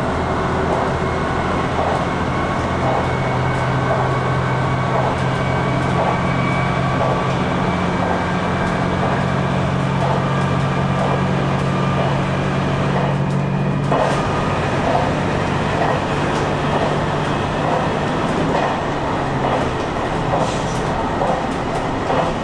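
Diesel railcar of a limited express running through a tunnel: steady engine drone with regular clicks of the wheels over the rail joints. The engine note steps down partway through.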